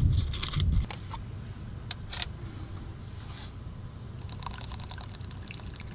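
Things being handled at close range: a low rumbling scrape in the first second, then scattered light clicks and small knocks.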